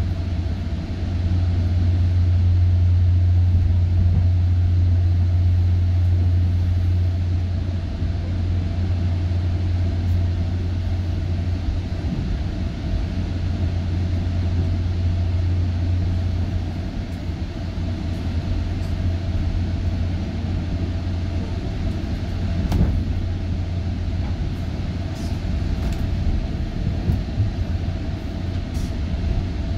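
GO Transit commuter train running, heard from on board: a steady low rumble and hum, with one sharp knock about three quarters of the way through and a few faint high clicks near the end.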